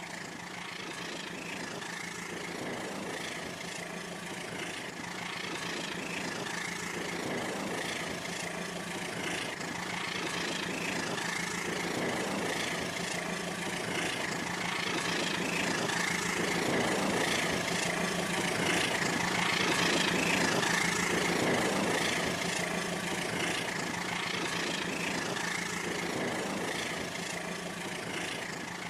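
RailKing model train running along its track, a steady motor hum with wheel-on-rail noise, growing louder toward the latter part and then easing off as it passes.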